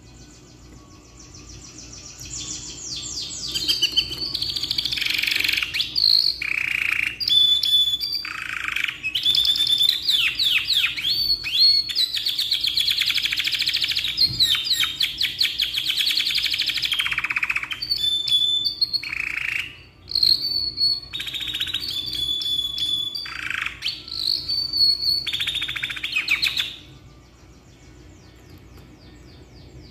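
Domestic canary singing a long, loud song of rapid trills and clear whistles, with a brief pause partway through; near the end the song drops to faint trilling.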